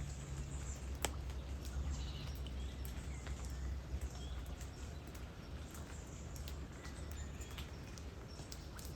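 Light rain falling, with scattered sharp drips and taps over an even hiss and a steady low rumble.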